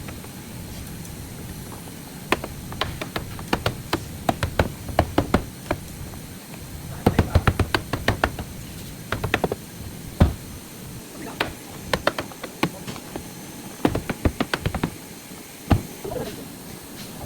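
Irregular series of short, sharp knocks and taps in quick clusters over a steady low hum, the knocking stopping near the end.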